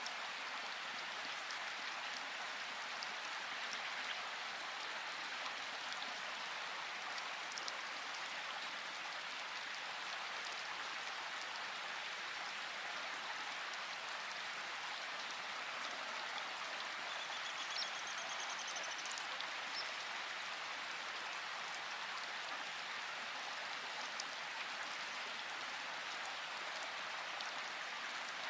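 Steady rain falling in a forest: an even, unbroken hiss with scattered ticks of individual drops.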